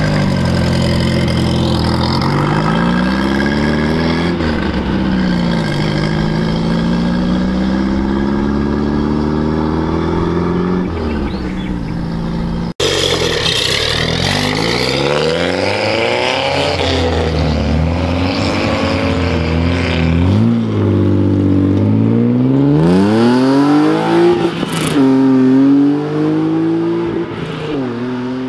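Lowered classic VW Beetle pulling away, its engine revving up and dropping back through the gear changes. After a sudden cut, a modified Volvo 240 GLT estate pulls away with repeated revs rising in pitch, loudest shortly before the end.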